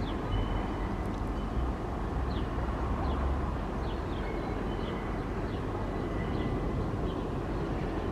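New York City subway L train making a steady rumble, with many short high chirps over it.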